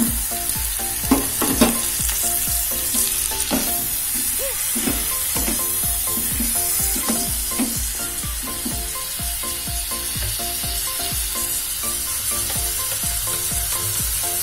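Chicken feet frying in hot oil and spice paste in a pot, sizzling steadily as a spatula stirs them, with two sharp knocks about a second and a half in as the feet go into the pot. Background music runs underneath.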